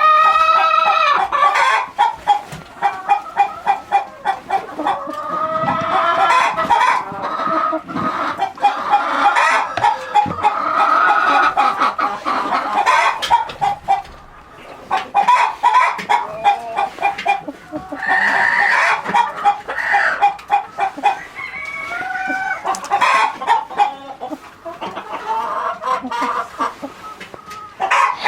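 Flock of chickens clucking continuously, with several longer drawn-out calls at intervals among the rapid clucks.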